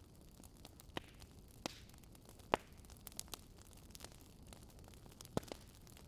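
Wood campfire crackling: a handful of sharp pops, the loudest about two and a half seconds in, over a faint steady rush.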